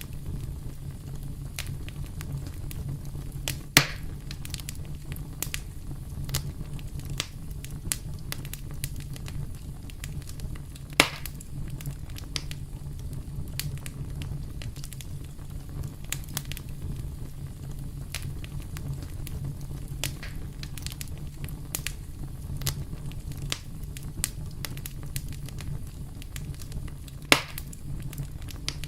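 Campfire crackling, with scattered small snaps and three louder pops over a steady low rumble.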